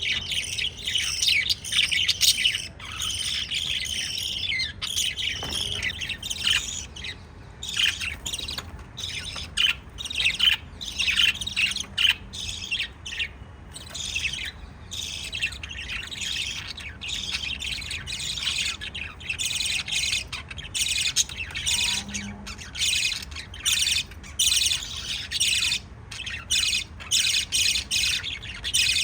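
Pet lovebirds chirping continuously in rapid, high-pitched chatter, with occasional sharper squawks.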